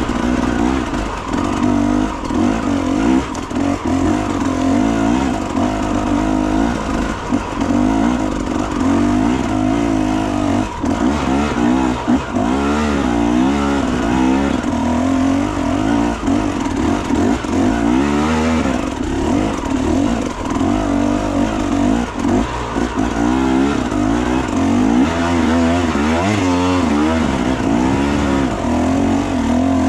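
Enduro motorcycle engine being ridden hard, its revs rising and falling constantly as the throttle is worked on and off.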